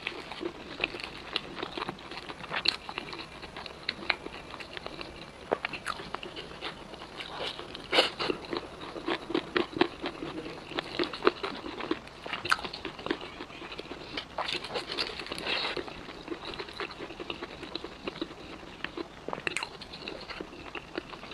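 Biting into and chewing crispy fried chicken: many irregular sharp crunches of the crust over wet chewing, with louder bursts of crunching about a third of the way in and again past the middle.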